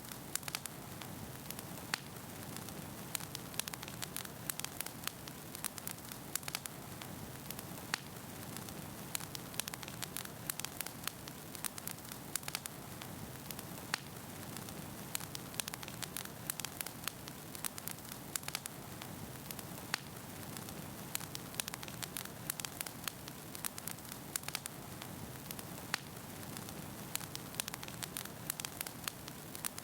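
Wood fire burning in a fireplace: a steady hiss of flame with frequent, irregular sharp crackles and pops from the burning logs.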